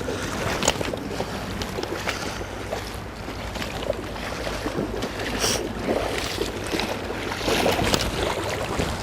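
Steady rush of river water around a wading angler, with a few small splashes as a hooked trout is held in the current.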